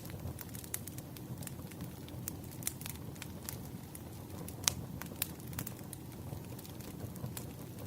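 Wood fire burning, with a steady low rumble and irregular sharp crackles and pops from the burning logs; the loudest pop comes a little past halfway.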